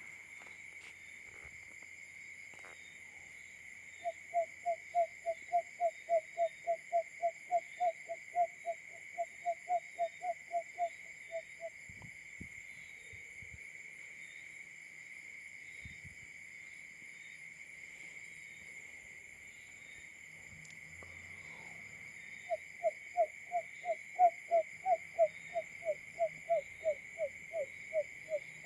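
Barred buttonquail call: a fast, even series of low hoots, about three a second, that runs for several seconds, stops, and starts again near the end. A steady high insect drone runs underneath.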